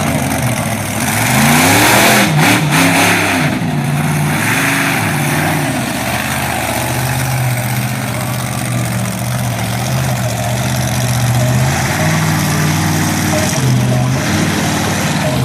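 Monster truck engine revving, its pitch rising and falling sharply for the first few seconds, then held at steady high revs while the truck does wheelies.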